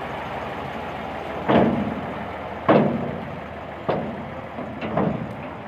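Tractor engine running steadily, with a series of sharp thumps starting about a second and a half in, roughly one a second.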